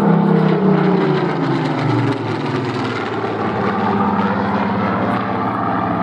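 Supermarine Spitfire PR Mk XIX's Rolls-Royce Griffon 66 V12 engine passing by. Its tone drops in pitch over the first two seconds, then runs steadily at a lower pitch.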